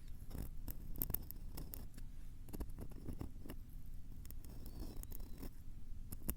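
Irregular close-miked tapping and scratching at a microphone: a quick, uneven run of sharp clicks and scratchy strokes over a low rumble.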